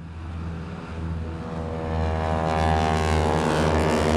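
North American Harvard / T-6 Texan trainer aircraft, its nine-cylinder radial engine and propeller running with a dense, buzzing drone that grows steadily louder as the aircraft approaches.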